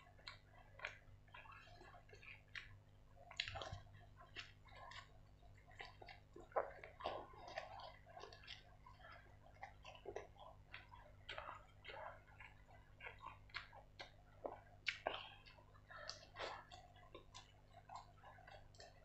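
Close-miked eating sounds: a man chewing a mouthful of fried egg, with irregular wet lip smacks and mouth clicks, over a faint steady low hum.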